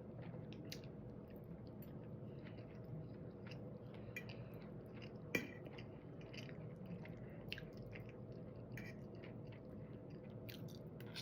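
A person chewing food close to the microphone: soft, faint mouth clicks and smacks throughout, with one sharper click about five seconds in.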